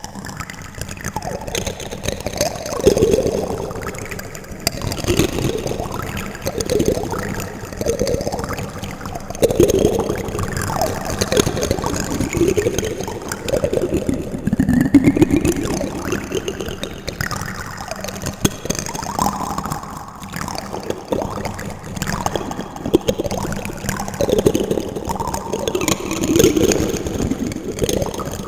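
Plastic spoons clicking, clattering and scraping against each other with an echo effect, giving many short clicks and squeaky rising and falling scrapes.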